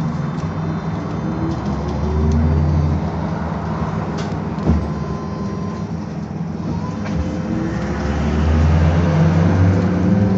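BKM-221 trolleybus running, with road rumble and the whine of its electric traction drive, which rises in pitch as it picks up speed near the end. There is a single sharp knock about halfway through.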